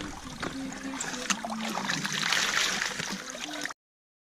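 Shallow river water splashing and trickling, with a few sharp clicks of stones knocking together, loudest just past halfway and cutting off abruptly near the end.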